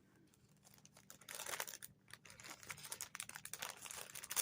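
A packaging bag being handled and opened, with light, irregular crinkling and small clicks starting about a second in.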